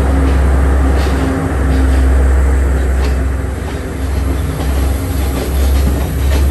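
Passenger train running along the track: a loud, steady low rumble of the carriage, with a few clicks of the wheels over rail joints.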